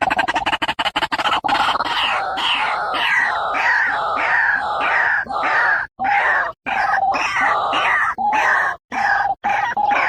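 White-breasted waterhen calling: a fast rattling run of pulses for about the first second and a half, then harsh 'ruak' croaks repeated about two a second, with a few short breaks.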